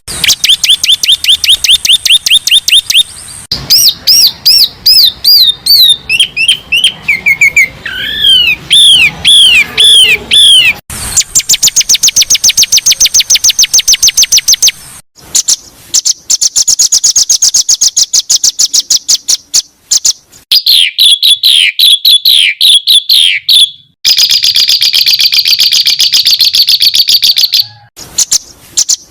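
Recorded songbird songs spliced together as masteran tutor material. Fast runs of repeated high chirps and trills switch to a new song every few seconds: some rapid and even, some dipping and sweeping. Very loud, with the peaks close to clipping.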